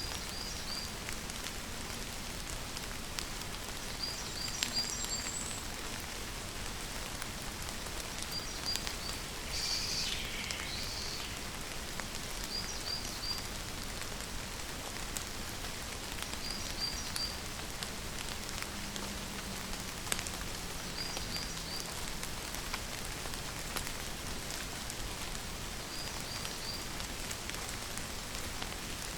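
Steady rain falling. A bird repeats a short, high chirp of two or three notes about every four seconds, with one longer falling call about ten seconds in.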